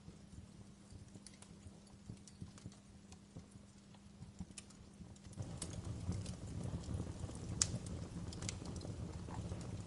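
Wood fire burning in a fireplace: irregular sharp crackles and pops over a low rumble of flames. About five seconds in, the rumble abruptly gets louder and the crackling gets busier.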